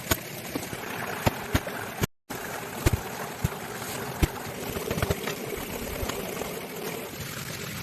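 Steady rain, with a series of sharp knocks and taps in the first five seconds. The sound cuts out completely for a moment about two seconds in.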